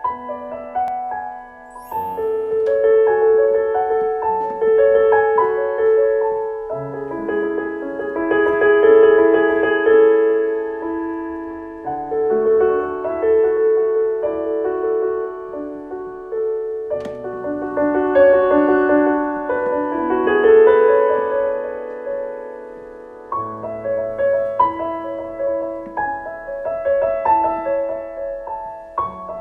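Piano playing a classical composition: a melody over layered held notes, swelling and ebbing in loudness several times.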